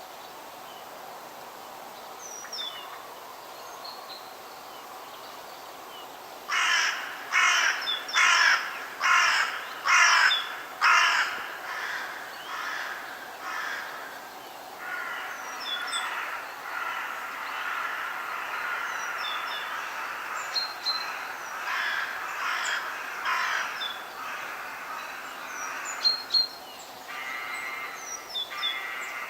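Forest birds: scattered short high chirps over a steady hiss. About six seconds in, a bird starts a run of loud repeated calls, roughly one and a half a second, which fade off. Overlapping calls follow.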